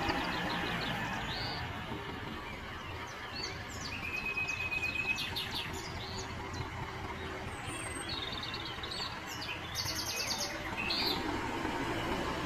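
Tractor engine running steadily as the tractor digs up soil, with birds chirping and trilling over it, including a short even trill about four seconds in and another about eight seconds in.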